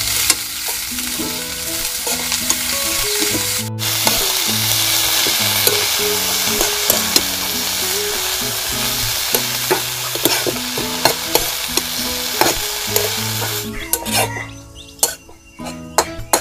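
Food sizzling as it fries in a pan and is stirred, with scattered clicks and scrapes of the utensil; the sizzle stops near the end. Soft background music plays underneath.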